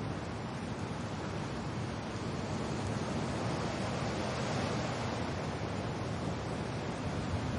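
Wind and rain making a steady, even rush, swelling slightly around the middle.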